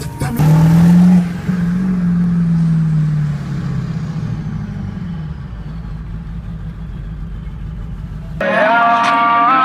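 A vehicle engine revving up, then winding down over a few seconds, above a steady low rumble. About eight seconds in, rap music cuts in loudly.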